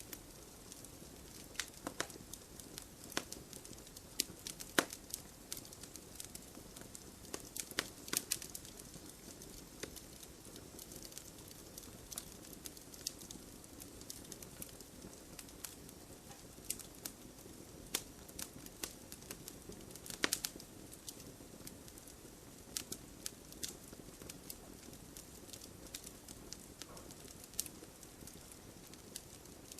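Wood fire burning in a fireplace: a steady low hiss of flames with frequent irregular crackles and occasional louder pops from the logs.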